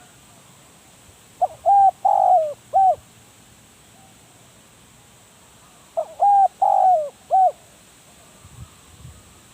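Spotted dove cooing: two phrases of about four coos each, the second starting about four and a half seconds after the first.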